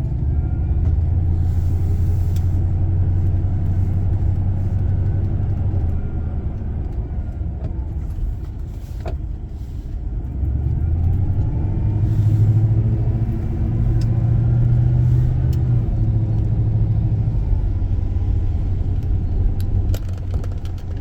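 Van engine and road noise heard from inside the cabin while driving: a low steady drone that eases off about halfway through and picks up again with a slightly higher note.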